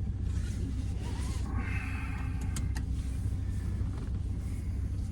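2014 Ram 1500's 5.7 Hemi V8 idling with a steady low rumble, heard from inside the cab. Two sharp clicks come about halfway through.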